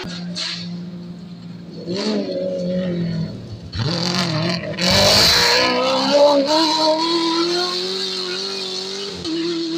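Off-road racing vehicle's engine at speed. It holds a steady note, revs up and down with a loud rush of noise about four to five seconds in, then settles on a steady higher note that drops briefly near the end.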